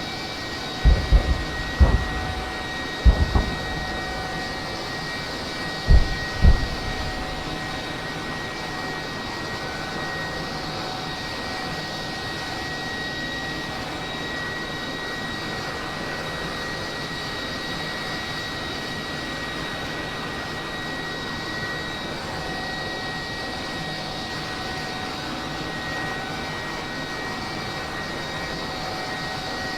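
Steady hum of an aircraft engine with a few high, even tones running through it. Several short, low thumps come in the first seven seconds.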